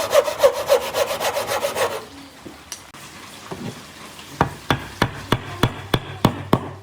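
Hand saw cutting through wood in even back-and-forth strokes, about three a second, stopping about two seconds in. Near the end comes a quick series of light, sharp knocks on wood.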